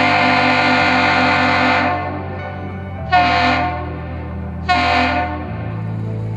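A ship's horn ends a long blast about two seconds in, then gives two short blasts: the long-and-two-short pattern of a Great Lakes master's salute. Background music with low sustained chords plays underneath.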